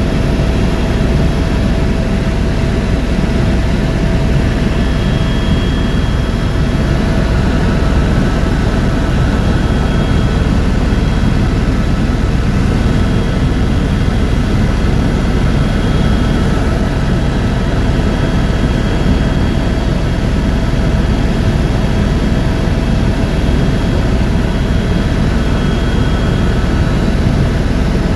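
Tour helicopter in flight: its engine and rotor make a steady, heavy noise with a thin high whine on top, unchanging throughout.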